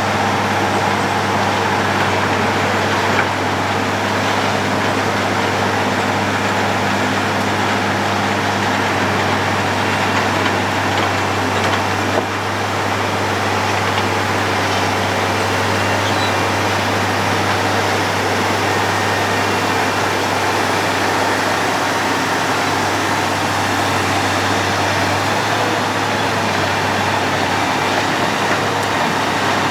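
A road planer runs steadily under load: a constant low diesel drone with dense mechanical noise. There is a sharp knock about twelve seconds in, and the low hum drops slightly near the end.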